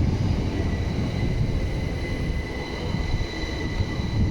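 Electric passenger train arriving at the platform: a low rumble of the train rolling in, with a steady high whine setting in about half a second in.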